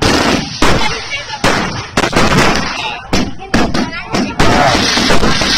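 Fireworks going off: about ten sharp bangs in quick, uneven succession, each trailing off, giving way to a steady noisy wash about four and a half seconds in.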